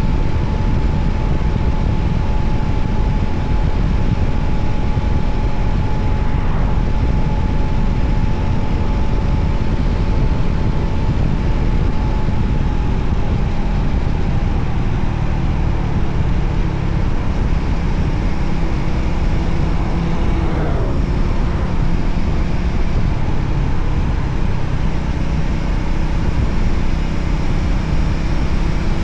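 Voge 300ACX motorcycle riding at steady speed: a continuous engine drone under heavy wind rush on the microphone. A sharply falling pitch sweeps through about two-thirds of the way in.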